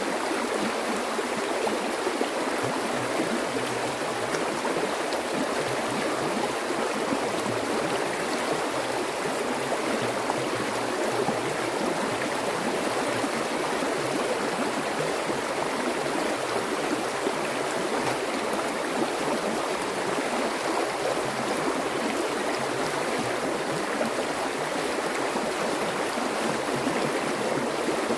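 Water flowing steadily, a stream running and gurgling.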